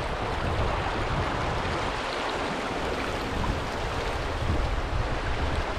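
Rushing river water, a steady even rush with no break.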